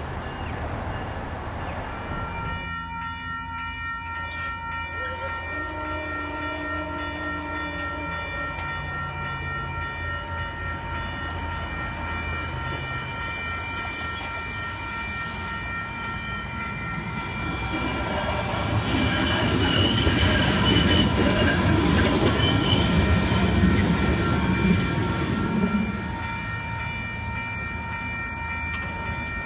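Railroad crossing warning bell starts ringing a few seconds in and keeps ringing steadily, with a train horn sounding briefly early on. From about 18 seconds a train passes through the crossing, its wheels and cars rumbling loudly for several seconds before the noise drops back to the bell.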